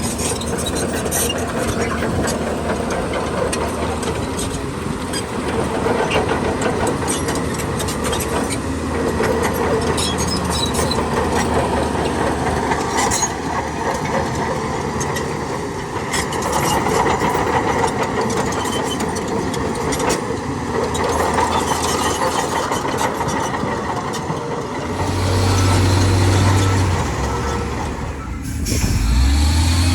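Heavy diesel earthmoving machinery working: engine noise with many scattered knocks and clanks. About 25 s in a deep engine note swells, drops away briefly, then rises again near the end as an engine revs.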